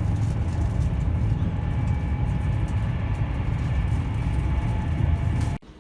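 Steady low rumble of a passenger train running at speed, heard from inside the carriage, with a few faint steady tones above it. It cuts off suddenly near the end.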